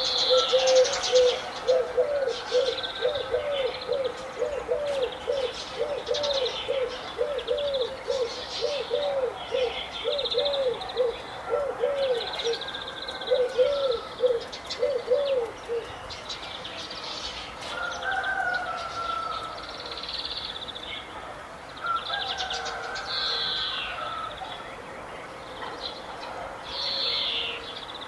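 Several birds calling at once: many short, high chirps and trills throughout, over a low call repeated about twice a second that stops about halfway through.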